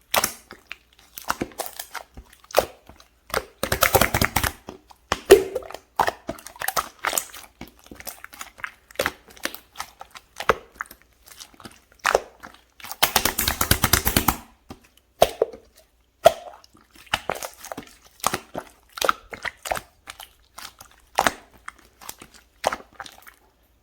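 Sticky slime being squeezed and stretched by hand: a run of wet clicks and pops, with denser crackling stretches about four seconds in and again around thirteen seconds in.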